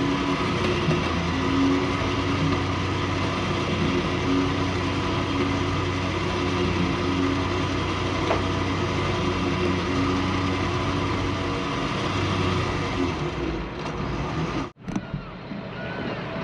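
A vehicle engine running steadily at an even speed, its low hum easing off near the end, followed by a sudden brief dropout.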